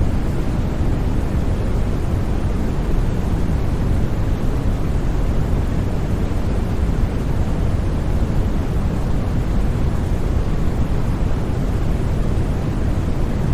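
Steady, unchanging white noise for sleep: an even rushing hiss with no breaks or sudden sounds, heaviest in the deep end and thinner toward the treble.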